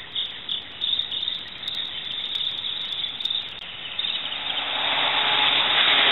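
Birds chirping in short high notes, about three a second. About four seconds in, a passing motor vehicle's engine noise swells and drowns them out toward the end.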